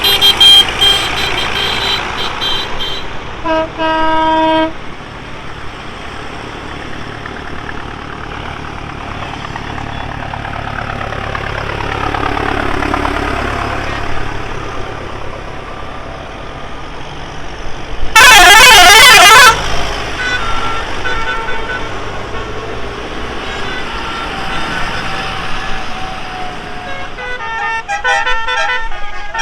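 Tractor engines running as a procession passes, punctuated by horns: a short horn blast about four seconds in, a very loud rapidly warbling siren-like horn for a second or two about two-thirds of the way through, and a flurry of horn toots near the end.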